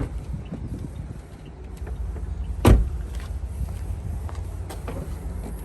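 Car trunk being opened: a single sharp thump about two and a half seconds in, as the Saab's trunk latch releases, over low rumbling handling noise.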